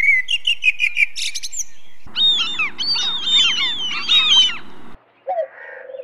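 Wild birds chirping in three spliced clips: first a quick run of high chirps, then from about two seconds in a dense chorus of many birds chirping over one another, and near the end a single lower, falling call.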